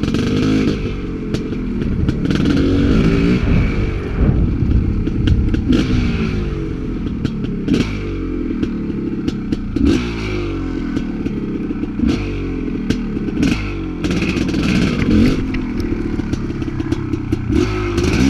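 Dirt bike engine revving up and dropping back over and over as the throttle is worked, with frequent sharp knocks and clatter from the bike over rough ground.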